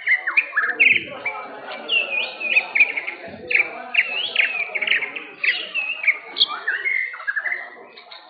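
White-rumped shama (murai batu) singing a fast run of loud whistled notes, with sharp upward and downward sweeps, over a low background murmur.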